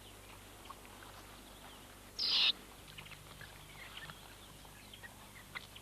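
Quiet wild ambience with scattered faint chirps, and one short, harsh, high-pitched animal call about two seconds in.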